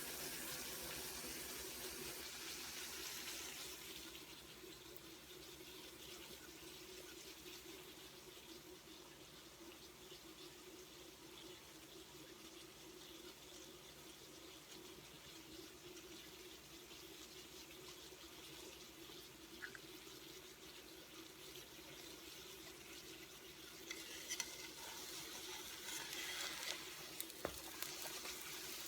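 Jamaican fried dumplings frying in shallow oil: a faint, steady sizzle, louder for the first few seconds, with scattered small pops and crackles near the end.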